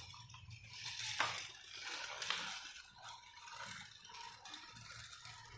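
Toy vehicles being handled and moved: sharp clicks about one and two seconds in, with scraping and rattling between them.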